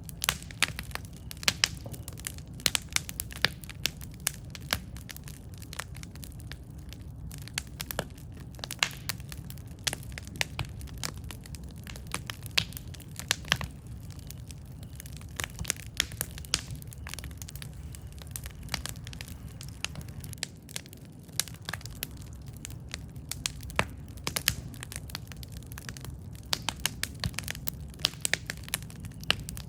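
Wood fire burning and crackling, with many irregular sharp pops and snaps over a steady low rumble of the flames.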